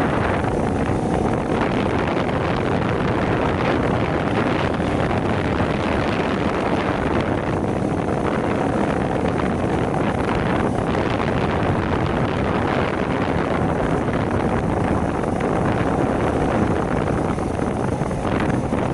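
Heavy wind buffeting the microphone while riding a Shineray 50cc motorcycle, with the small engine droning steadily underneath.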